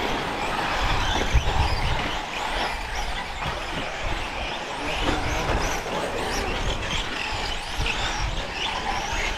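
Several radio-controlled 4WD short course trucks racing on a dirt track: their motors whine in many short rising and falling pitches as they accelerate and brake.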